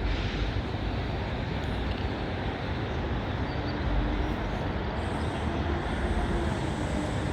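Steady low rumble and road noise of a vehicle in motion.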